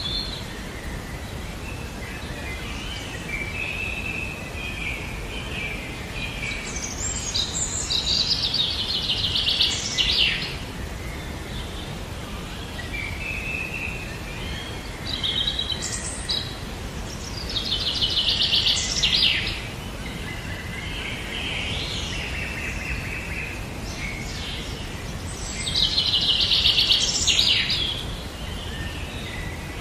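A songbird singing repeated phrases about every nine seconds, each building from soft notes into a loud fast trill, over a steady background hiss.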